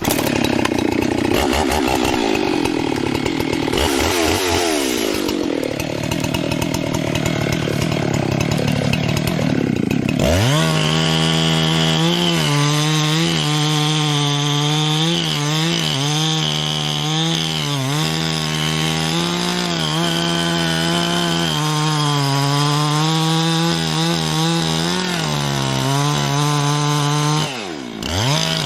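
Husqvarna 385 XP two-stroke chainsaw running at full throttle, making the back cut into a black cherry trunk behind the hinge during felling. About ten seconds in the pitch settles into an even, high whine. Near the end it dips briefly and comes back up.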